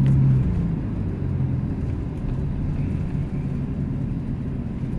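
2014 6.7 Cummins turbo-diesel with a straight-pipe exhaust running while the truck is driven: a steady low drone that drops back and eases off about half a second in, then settles into an even rumble.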